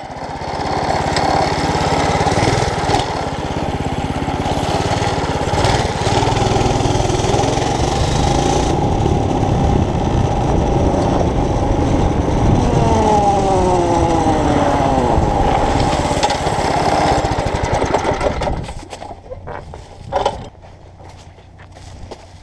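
Mini bike's small single-cylinder engine running at speed, with wind rushing on the microphone. A little past halfway the engine pitch falls over a few seconds, and the noise drops away much quieter for the last few seconds.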